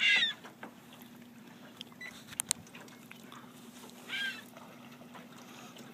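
A seagull tangled in fishing line squawking: a short harsh call at the start and another about four seconds in. A few sharp clicks come in between, over a faint steady hum.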